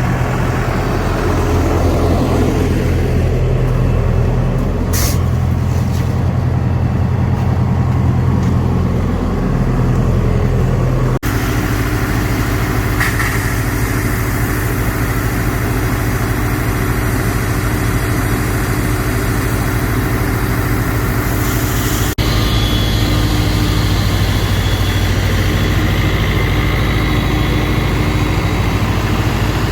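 Diesel engine running steadily. The sound changes abruptly about 11 and 22 seconds in, each time to a slightly different steady tone.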